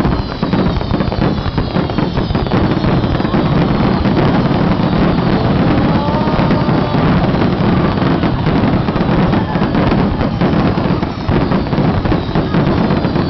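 Fireworks display going off in a dense, continuous barrage of crackling bangs, with falling whistles in the first couple of seconds.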